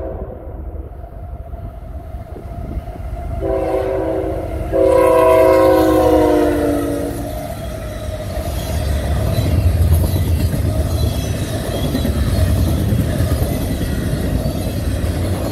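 A CSX freight locomotive's air horn sounds a short blast and then a longer, louder one, its chord falling slightly in pitch as it ends. The locomotive and its double-stack container well cars then roll by with a steady low rumble and wheel-on-rail clatter.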